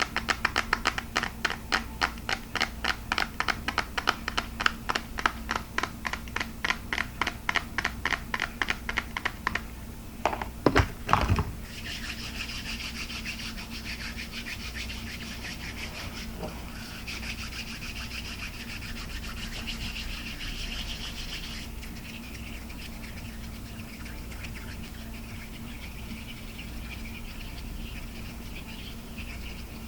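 Fast fingertip tapping on hard plastic, about four or five taps a second, breaking off into a few louder knocks. It gives way to steady scratchy rubbing across the surface.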